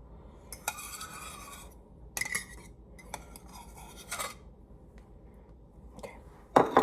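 A knife scraping across toast, spreading avocado on it in several separate scraping strokes; the last, near the end, is the loudest.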